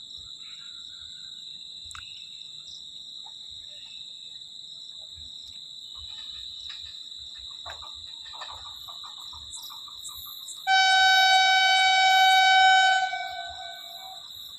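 Electric multiple unit passenger train's horn sounding one long, loud blast about eleven seconds in, lasting about two and a half seconds. Insects chirr steadily at a high pitch throughout.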